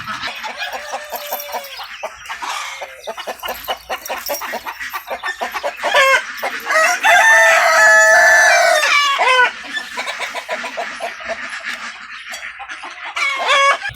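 Chickens clucking in quick short calls, with a rooster crowing loudly about six seconds in, its crow holding for around three seconds; another short call comes near the end.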